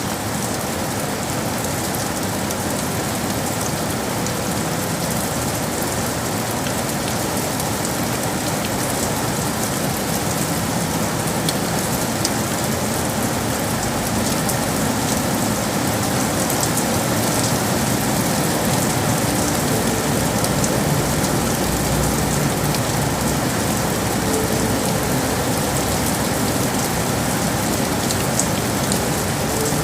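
Steady rain falling on hard city surfaces, a constant hiss with individual drops ticking through it. A low rumble builds in the second half.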